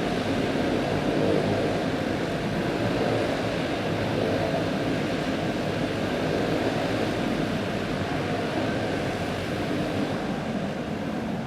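A pack of clone-engine racing go-karts running at speed on a dirt oval, their small single-cylinder four-stroke engines blending into one steady, continuous drone.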